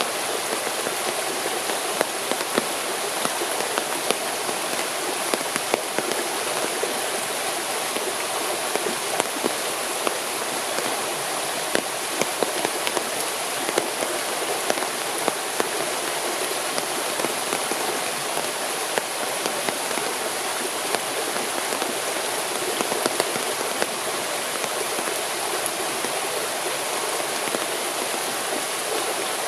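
Steady rain: a continuous hiss with many separate drops landing as sharp ticks.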